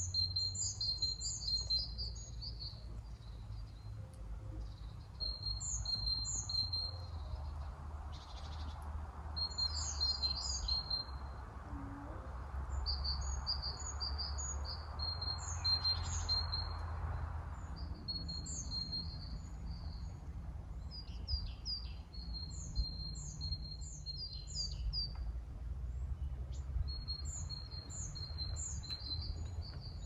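Small songbirds chirping in quick runs of high, short notes, phrase after phrase, in a pine wood. A steady low rumble lies underneath.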